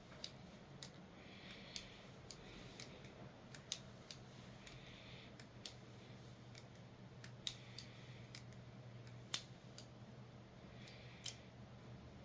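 Leatherman SIGNAL multitool being worked by hand: irregular sharp metal clicks and snaps of its pivoting pliers and tools, with soft scraping between, the pivots freshly oiled to work out old grime. The loudest snap comes about nine seconds in.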